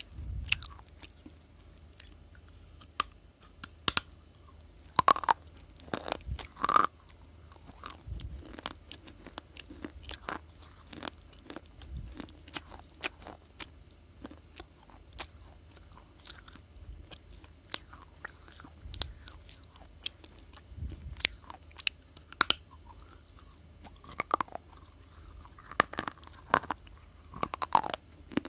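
A person biting and chewing crunchy baked clay: irregular sharp crunches and snaps with quieter chewing between, and a few louder bites in clusters.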